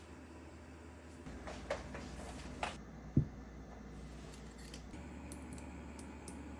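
A few light clicks in kitchen work over a low steady hum. The loudest is a sharper knock a little past three seconds in.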